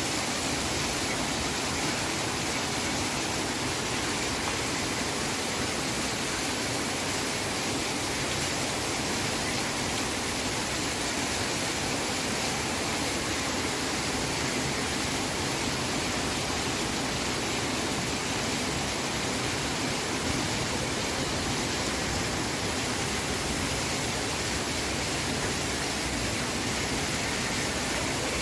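Steady rainfall, an even hiss that does not change in level.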